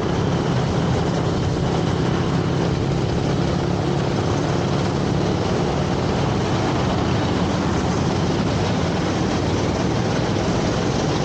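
80cc racing kart engine running at a steady speed with a constant rushing noise and no rise or fall in pitch.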